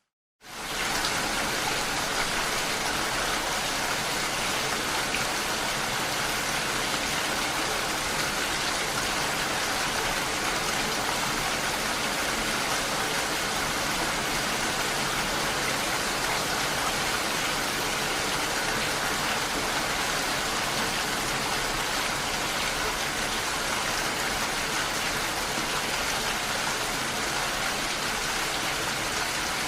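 Steady rain on window glass, an even hiss of drops that comes in after a brief moment of silence at the very start.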